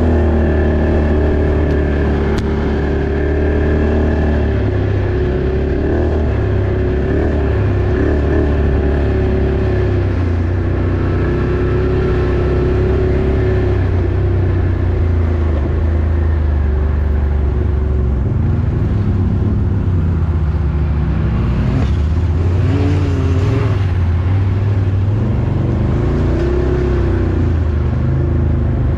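Off-road vehicle engine running under way, its pitch rising and falling as the throttle is worked, with a deep low rumble throughout.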